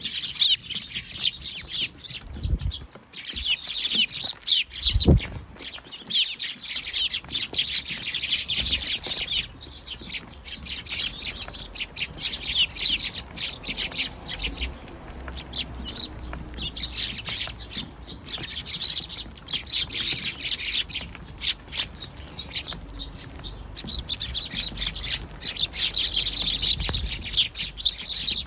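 A flock of Eurasian tree sparrows, fledglings among them, chirping busily and almost without pause, with many short high chirps overlapping. Two dull low thumps sound about two and a half and five seconds in.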